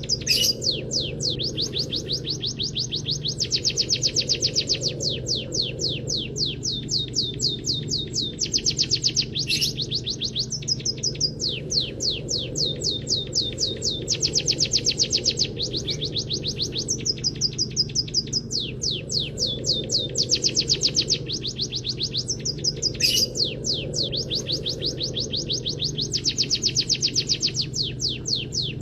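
Caged songbird singing canary-style song without a break: long runs of rapid trills, about ten notes a second, switching to a new phrase every second or two, over a steady low hum.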